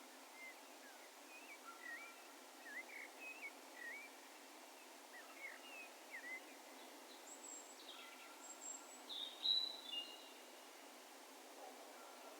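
Distant birds calling: a string of short chirps that rise and fall in pitch through the first six seconds, then a few thin, high whistles and one louder call about nine and a half seconds in, over a faint steady hiss of open-air background noise.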